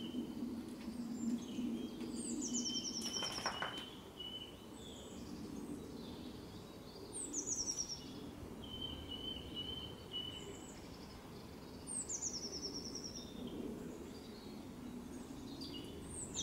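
A songbird singing the same short phrase about every four to five seconds, high falling notes followed by a lower even trill, with other faint chirps between. Under it runs a steady low background hum.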